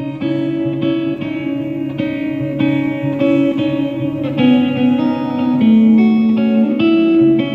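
Live band music led by guitar, playing a passage of plucked, struck chords with evenly spaced notes. Over the second half, a few long held notes are added that step down and then up again.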